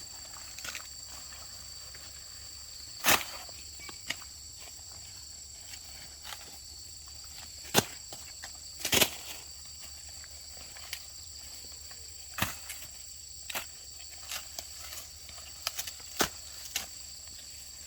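Steady high-pitched insect trilling in a field, with scattered sharp knocks and clicks; the loudest come about three, eight and nine seconds in.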